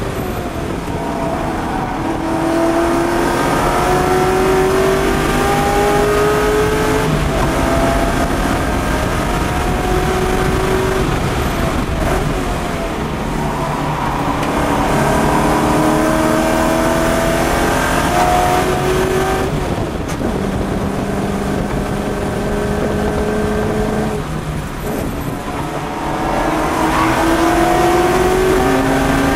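Porsche 928 S4's 5.0-litre V8 with aftermarket headers, heard from inside the cabin, pulling hard under track driving. Its pitch climbs for several seconds at a time, then drops suddenly at shifts and when the driver lifts for corners, before climbing again near the end.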